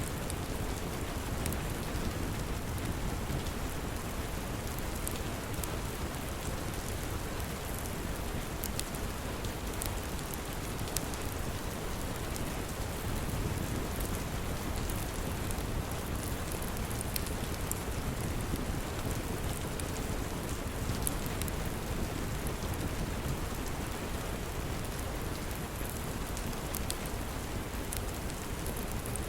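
Steady rain falling, with a constant low rumble underneath and scattered sharp little crackles from a wood fire in a fireplace.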